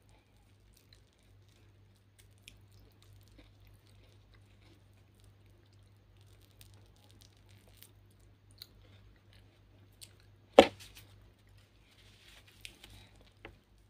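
Close-up chewing and mouth sounds of someone eating boiled corn on the cob: soft squishy chewing with small clicks and crackles. A single loud sharp knock about ten and a half seconds in stands out above the rest.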